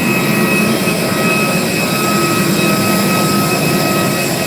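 Aircraft turbine running steadily: a continuous roar with a high whine held at a few steady pitches.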